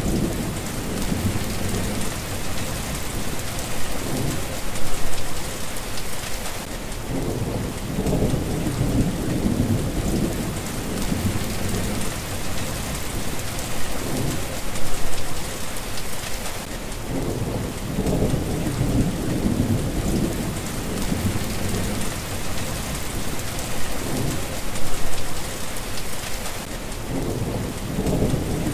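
Steady rain with low thunder rumbling throughout, swelling louder about every ten seconds.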